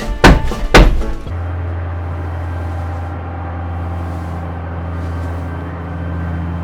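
Two heavy thumps of feet landing on a boat's custom deck hatch, followed by background music holding a steady low drone.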